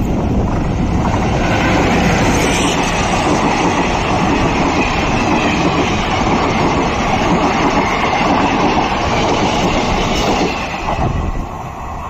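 Diesel-hauled passenger train passing close by, the locomotive followed by a string of coaches with their wheels running over the track, loud and steady for most of the time. It drops off sharply near the end as the train is heard moving away.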